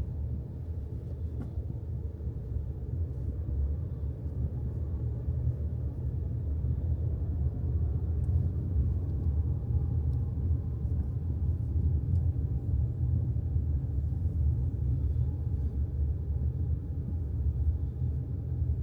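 Steady low rumble of a car in motion, road and engine noise with no change in pitch.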